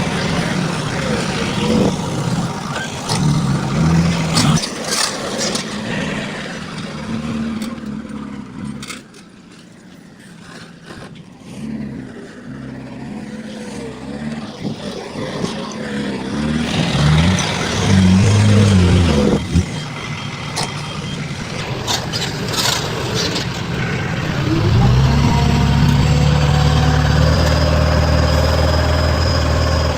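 Heavy diesel construction machinery running and revving, with scattered clanks and knocks. A loud, steady engine drone sets in near the end.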